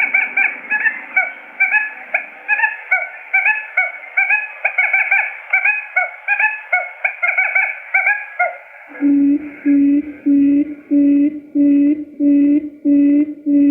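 Quail lure calls: a rapid run of short chirping calls, then from about two-thirds of the way in a steady series of low hooting notes, about two a second, with faint chirps over them.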